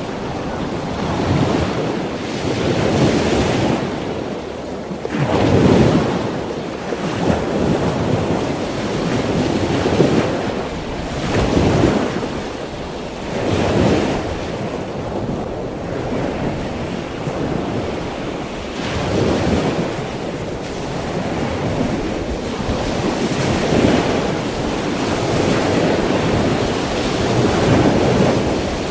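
Ocean surf: waves washing in as a steady rush that swells and fades at irregular intervals a few seconds apart.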